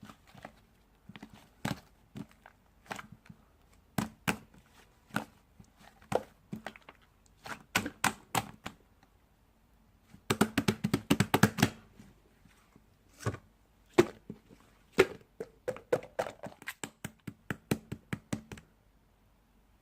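Irregular sharp taps and clicks of something being handled, with a quick run of rapid taps about halfway through and another cluster near the end.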